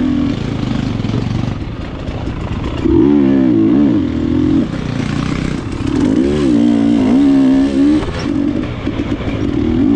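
Enduro dirt bike engine being ridden on trail, the revs rising and falling with the throttle, with sharp surges about three seconds in and again from about six to eight seconds in.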